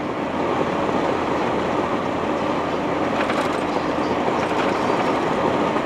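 Steady road and engine noise of a vehicle driving on a highway, picked up by a dashcam inside the cab.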